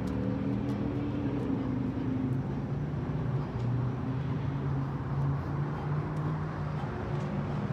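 Steady low hum of an idling vehicle engine running evenly, with a few faint clicks over it.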